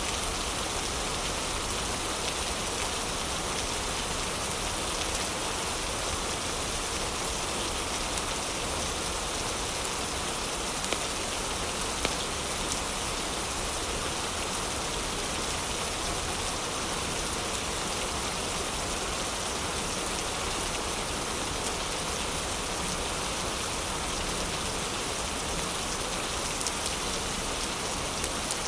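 Heavy rain falling steadily, with a few sharp crackles from a fireplace fire now and then.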